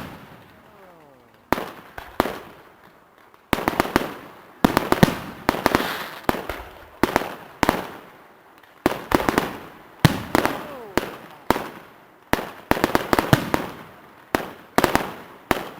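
Fireworks display: aerial shells bursting with sharp bangs in quick clusters, each followed by fading crackle. A short falling whistle comes just after the first bang.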